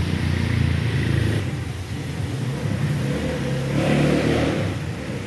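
An engine running with a low rumble, its pitch rising and falling.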